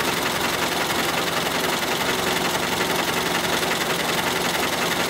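Ford Model T four-cylinder engine idling steadily.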